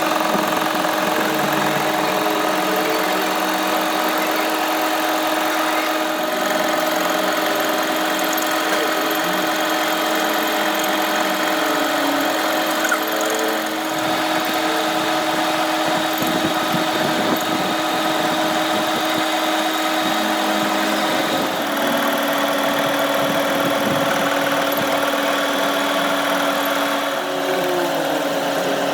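A machine motor running steadily with a constant hum, dropping slightly in pitch about two-thirds of the way through.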